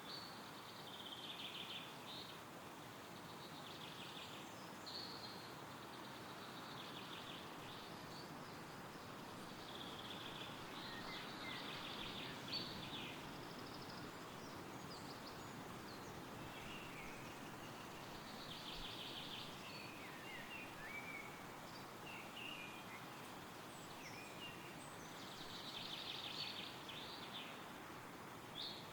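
Wind rustling through forest trees, with songbirds repeating short rapid trills over and over and a few scattered chirps in between.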